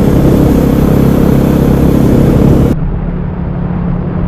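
KTM 500 EXC's single-cylinder four-stroke engine running on the road under wind rush. About two-thirds of the way in, the sound drops abruptly and turns duller, leaving a steady lower engine hum.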